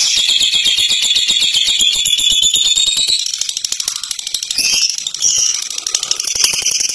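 Lovebird singing its ngekek, a long, rapid, shrill chattering trill that breaks off about three seconds in and gives way to scattered high chirps.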